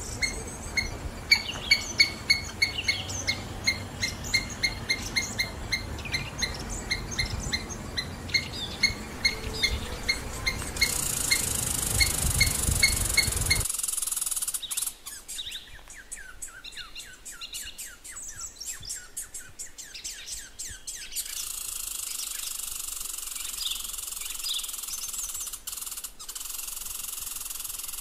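Small birds chirping and calling, at first one short chirp repeated about three times a second. The background changes abruptly twice, and a steady hiss lies under the later calls.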